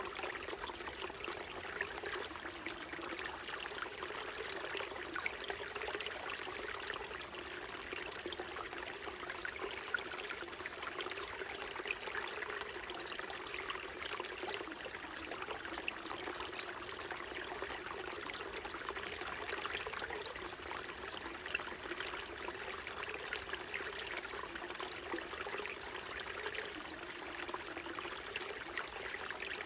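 Small mountain stream burbling and trickling over rocks, a steady babble of many small splashes.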